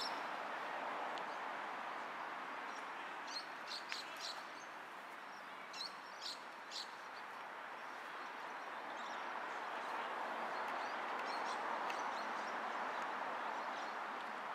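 Steady outdoor background noise with a few short, high bird chirps, one cluster about three to four seconds in and another about six to seven seconds in.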